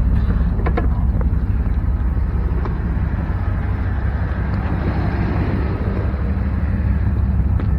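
A motor vehicle's engine running steadily, with a rushing noise that swells and fades in the middle, like a car going past. A few sharp clicks about a second in.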